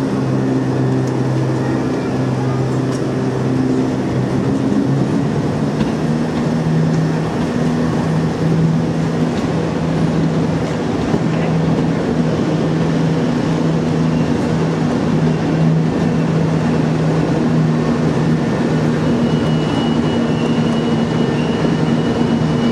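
Class 442 electric multiple unit running slowly past: a steady rumble of wheels and running gear under a low droning hum that steps up in pitch about five seconds in.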